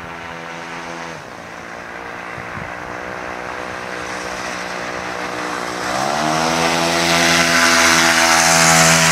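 Propeller bike's 33cc two-stroke chainsaw engine spinning an 18 by 12 RC airplane prop. The engine note dips about a second in, creeps up, then revs up sharply around six seconds, getting louder with a rising whoosh of the propeller.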